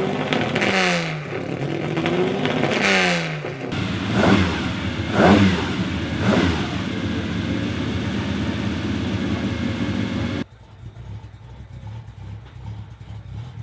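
Classic racing car engines being revved hard, with repeated throttle blips rising and falling in pitch, then running on more steadily. About ten seconds in the sound drops abruptly to a much quieter background.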